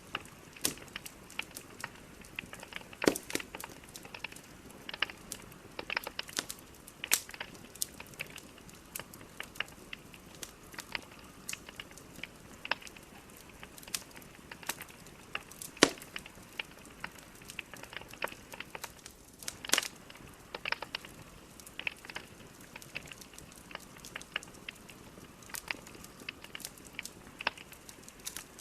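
Wood fire burning in a fireplace: a soft steady hiss under irregular crackles and snapping pops from the logs, a few of them sharp and loud.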